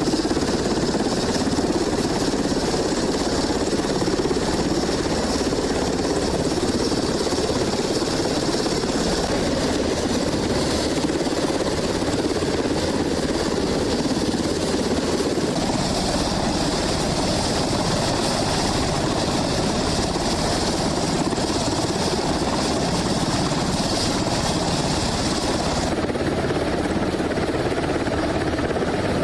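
Helicopter running steadily, its rotor and engine making a continuous dense drone; a high hiss in the sound drops out near the end.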